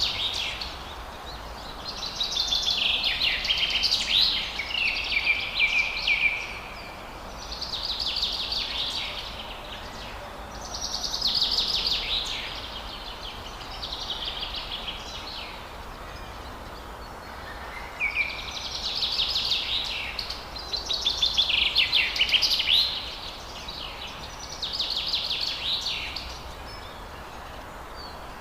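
Forest bird song: phrases of rapid, high chirping notes, each lasting one to four seconds, repeated every few seconds with short pauses between, over a faint steady background hiss.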